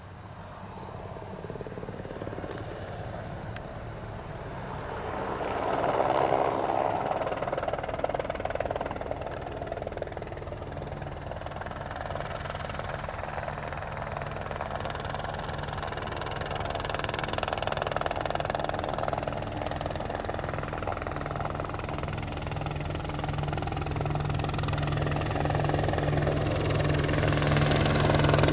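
Light turbine helicopter flying on a crop-spraying run: a steady rotor and engine hum that swells about six seconds in, then grows louder toward the end as it comes closer.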